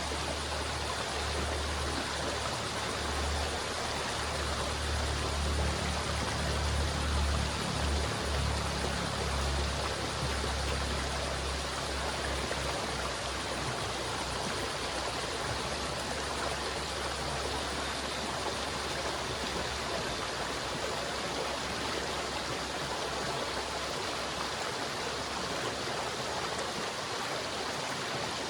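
River water flowing, a steady even rush, with a low rumble underneath that is strongest in the first third and fades near the end.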